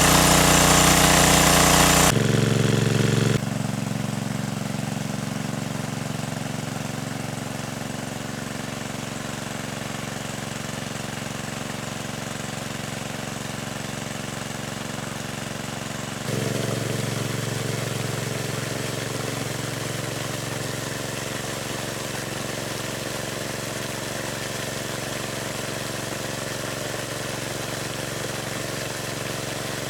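A small engine running steadily, its level stepping abruptly about two, three and sixteen seconds in.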